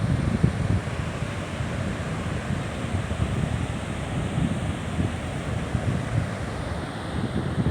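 Sea surf washing on the shore, with wind buffeting the microphone in uneven gusts.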